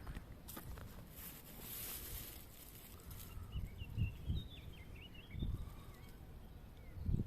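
Outdoor ambience on a walk: a brief rustling hiss early, then a small bird chirping in a run of short notes for a few seconds, with a few low thuds underneath.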